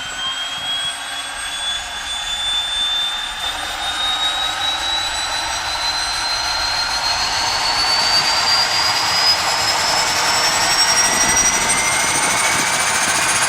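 Cessna 208B Grand Caravan's PT6A turboprop engine and propeller running in flight, heard from the cockpit: a steady rush with a high turbine whine that climbs slowly in pitch and grows a little louder.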